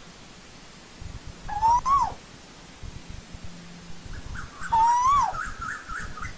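Asian koel calling: two loud whistled notes about three seconds apart, each rising a little and then dropping sharply at the end. A quick run of shorter, higher notes follows the second call.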